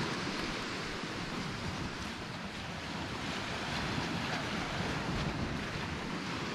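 Sea surf washing steadily onto the island's shore, with wind buffeting the microphone in a low rumble.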